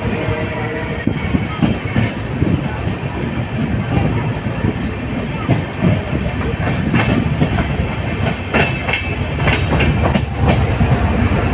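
Passenger express train running at speed: a steady rumble from the coach's running gear, with the wheels clicking over rail joints, the clicks thicker in the second half.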